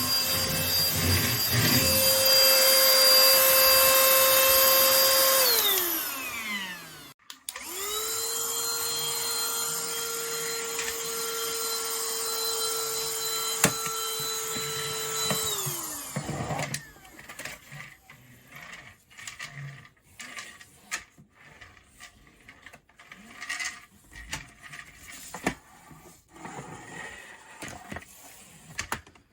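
Fochai cordless stick vacuum cleaner's motor running with a steady high whine and winding down after about six seconds. It starts again at a slightly lower pitch and lower level, runs for about eight seconds and winds down again. Then only scattered clicks and rubbing from handling the vacuum.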